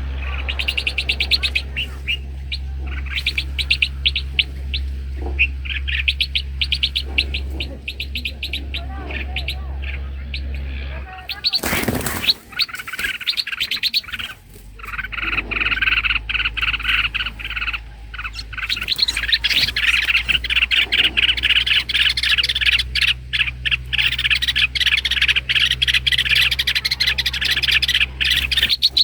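Bulbuls at the nest chirping in rapid, repeated calls, over a steady low hum. About twelve seconds in there is one brief loud rustle or knock.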